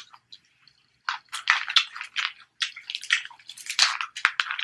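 Close-miked wet, squishy eating noises from sauce-covered snow crab legs: a quick, irregular run of smacking and squelching that starts about a second in, with one sharp click near the end.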